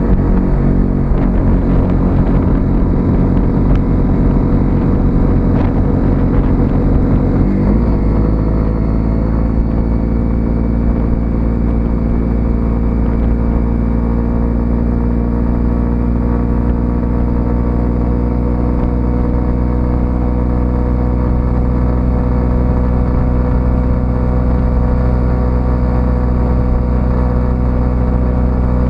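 Single-cylinder 125cc motorcycle engine running while riding. Its note changes abruptly about seven and a half seconds in, then holds steady with a slowly rising pitch.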